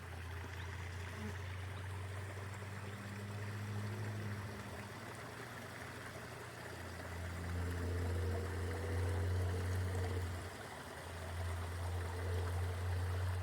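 Small stream running, a steady trickling hiss over a low, steady rumble that gets louder about halfway through.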